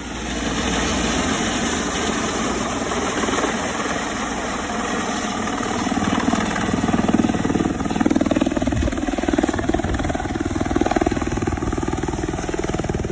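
Helicopter running nearby, with a steady high turbine whine over the churning of the engine and rotor.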